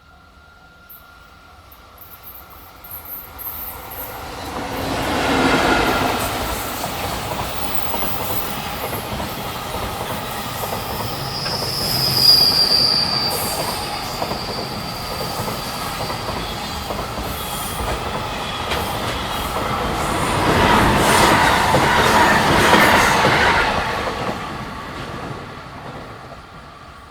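A freight train passing close by, its wheels rumbling and clattering on the rails. The sound builds and fades at either end. About midway there is a brief high wheel squeal.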